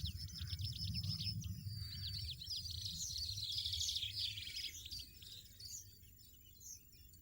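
European goldfinch twittering song, fast trills and chirps that thin out to a few short notes after about five seconds, over a low rumble.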